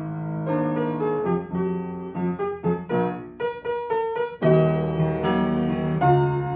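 Gentle piano music: single notes played in a melody, quickening into a run of short notes, then a fuller chord about four and a half seconds in.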